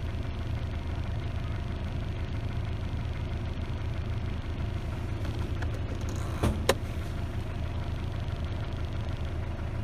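Isuzu D-Max engine idling steadily with the A/C compressor's magnetic clutch engaged and the compressor running. Two sharp clicks come close together about two-thirds of the way through.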